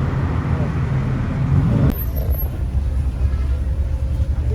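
Low, steady rumble of road traffic and car engines. A sharp click about two seconds in is followed by an abrupt change in the sound.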